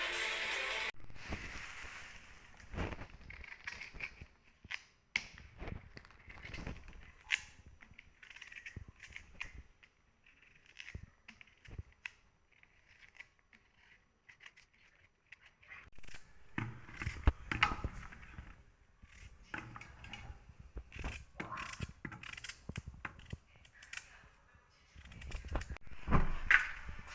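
Irregular sharp clicks, knocks and light rustling of objects being handled, busier near the middle and again near the end; background music cuts off about a second in.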